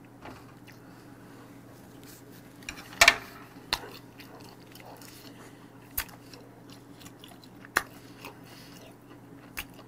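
Close-miked chewing of raw beef: soft wet mouth sounds broken by scattered sharp smacks and clicks, the loudest about three seconds in, over a steady low hum.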